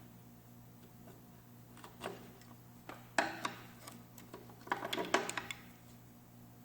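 Metal parts or tools clinking and knocking in a few short clusters, the loudest about three seconds in and again around five seconds, over a steady low hum.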